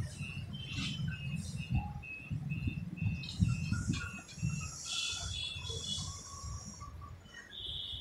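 A bird calling a run of short, evenly repeated high chirps, about three a second, that stop about halfway through, over a low background rumble.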